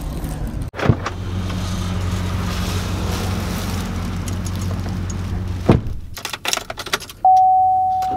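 A truck engine runs at a steady idle, with a click just under a second in and another near six seconds. Then the hum drops away into a run of small clicks and rattles like keys. A loud, steady electronic warning tone starts near the end.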